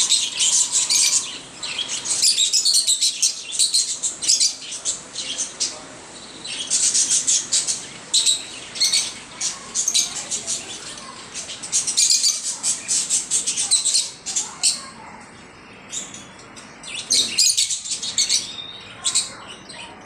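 African lovebirds chirping and chattering in repeated bursts of rapid, high-pitched calls, with short lulls between the bursts.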